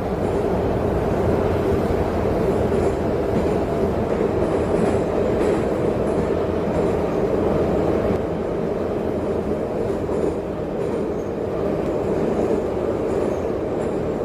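Metro train running between stations, heard from inside the carriage: a steady rumble of wheels on the rails.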